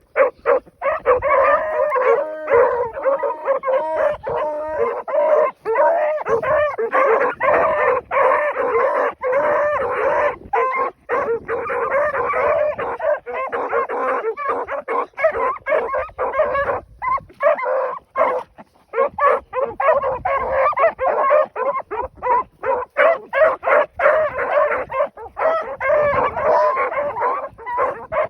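Pack of rabbit hounds baying together in full cry, several voices overlapping continuously; it breaks out suddenly right at the start. The pack is opening on a rabbit's scent trail.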